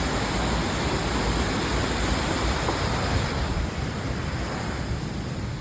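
Steady rushing of a waterfall, becoming a little softer and duller about three and a half seconds in.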